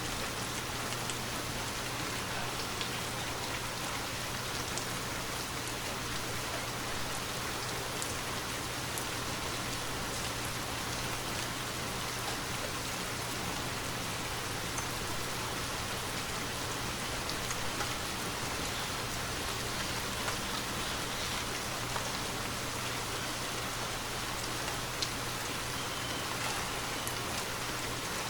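Steady rainfall, an even rushing hiss with scattered individual drops ticking through it.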